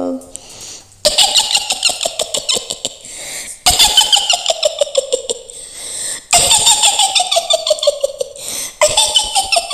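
A witch's high-pitched cackling laugh, the Mak Lampir voice, in four long runs of rapid 'hi-hi-hi' pulses, each run sliding down in pitch.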